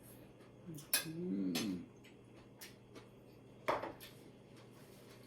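A few sharp clicks of tableware, with a louder knock about three and a half seconds in, and a short vocal sound about a second in.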